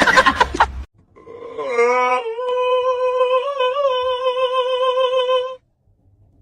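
After the music stops, one long voice-like note slides up and is held steady for about three seconds with slight wavers, then cuts off suddenly.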